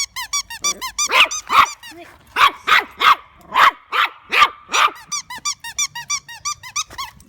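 A dog's squeaky bone toy squeaking over and over in quick runs as he chews it, with about nine loud barks in a row in the middle.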